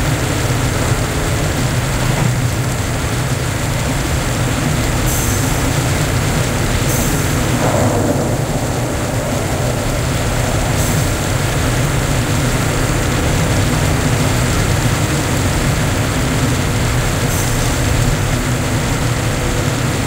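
Train running along the track, heard from on board: a steady low rumble with a rushing noise over it, swelling briefly about eight seconds in.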